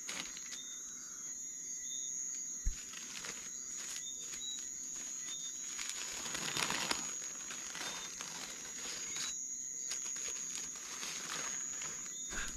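Packaging being handled and unwrapped, crinkling and rustling irregularly, with one short knock a few seconds in.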